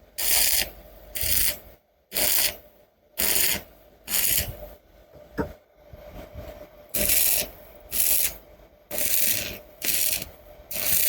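Stick-welding arc from a KAZAKI MMA-250ZEN3 inverter welder crackling in about ten short bursts, roughly one a second, as the electrode is dabbed on to tack two pieces of iron together.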